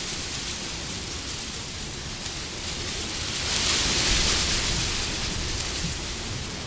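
Wind blowing as a steady rushing noise, with a gust swelling about halfway through and then easing off.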